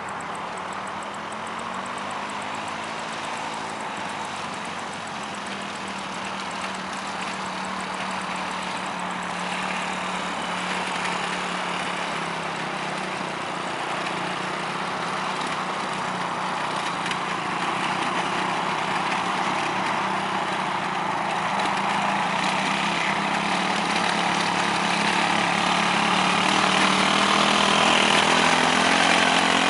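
Quad bike engine running, its pitch rising over the first few seconds and then holding steady, getting gradually louder toward the end.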